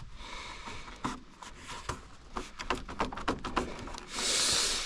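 Plastic clicking and rubbing as the clipped-in rear light of a snowmobile is worked loose from its clips, with a short hiss-like scrape near the end.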